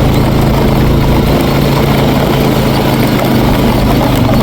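Four-wheeler (ATV) engine running at a steady, moderate speed while being ridden, a constant low engine hum.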